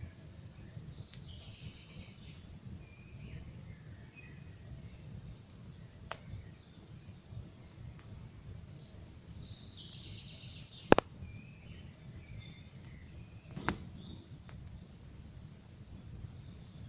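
Campfire burning with a low steady rumble and three sharp crackling pops, the loudest about eleven seconds in, while songbirds chirp and sing throughout.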